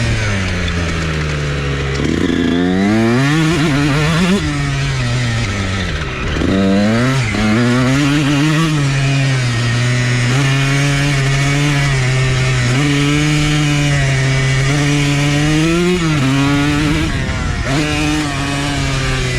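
125 motocross dirt bike engine running as it is ridden, revving up sharply twice in the first seven seconds and then holding a fairly steady pitch with small rises and dips.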